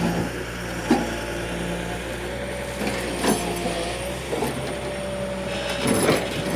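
JCB backhoe loader's diesel engine running steadily under load, with a whine from its hydraulics and several knocks and clanks from the working machine, the loudest near the end.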